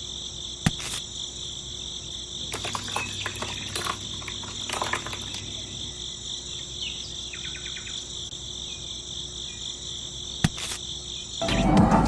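Steady high insect trill, cricket-like, with a few light clicks and knocks over it; the trill stops shortly before the end.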